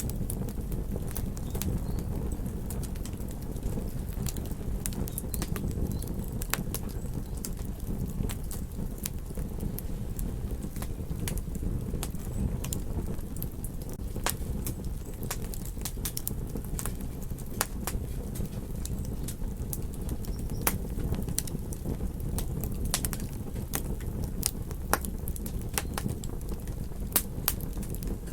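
Wood campfire crackling and popping: many sharp irregular snaps over a steady low rumble.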